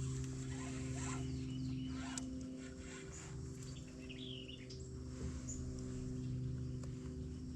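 Birds chirping and calling repeatedly over a steady low hum, with a few knocks and rustles one to two seconds in.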